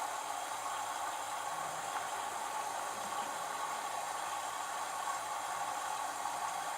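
LG F1222TD direct-drive washing machine running in the prewash of its Babycare cycle: a steady, even hiss.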